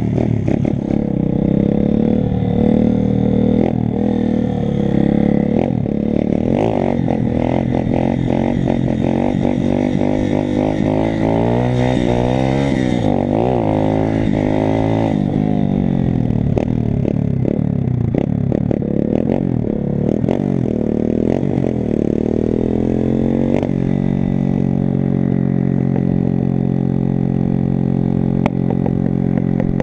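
125 cc pit bike engine being ridden hard, its pitch rising and falling again and again as it revs up and shifts, then holding steadier near the end, with frequent knocks and rattles.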